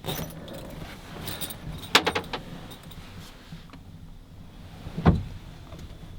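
Rustling and clinking as someone moves about and handles gear inside a truck-bed camper, with a cluster of sharp clicks about two seconds in and a louder knock with a low thud about five seconds in.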